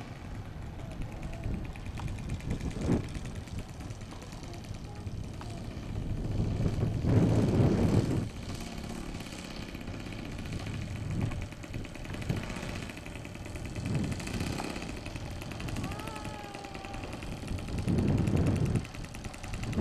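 YS 110 supercharged four-stroke glow engine of a model pylon racer running, its pitch falling twice as it passes, with two loud gusts of wind on the microphone, one near the middle and one near the end.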